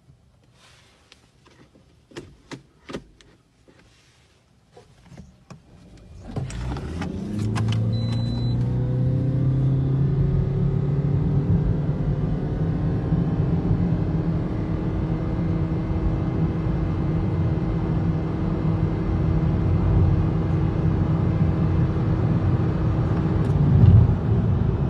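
A few quiet clicks, then a Toyota Corolla Axio accelerating hard from about six seconds in: the engine note rises quickly for a couple of seconds, then holds at a steady drone under road noise as the car keeps pulling.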